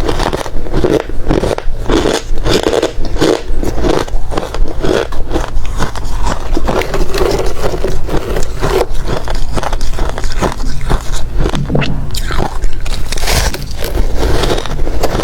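Hard ice being bitten and chewed close to the microphone: rapid, irregular loud crunching and cracking, several crunches a second.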